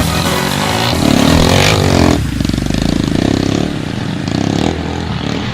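Trail motorcycle engine revving hard, then dropping about two seconds in to a lower, evenly pulsing run.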